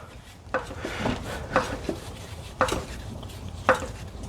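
Metal clanks and knocks, about one a second, from tools and the lower control arm being worked out from under a car.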